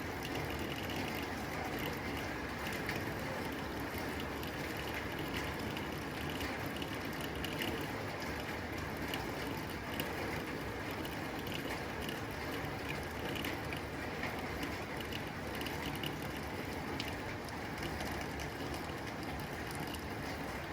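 Steady rain falling on a tin roof: a dense patter of sharp drop ticks on the metal over a continuous hiss of rain.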